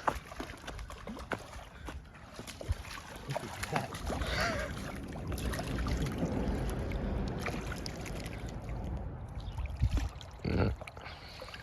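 Splashing and handling noise as a small carp is brought in to the riverbank, over a low rumble of wind on the microphone with scattered clicks and faint voices.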